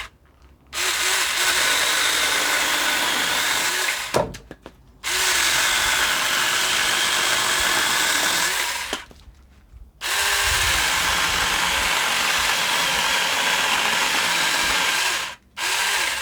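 Saker 4-inch cordless mini electric chainsaw running and cutting through a branch, a steady whine in three runs of a few seconds each with short pauses between.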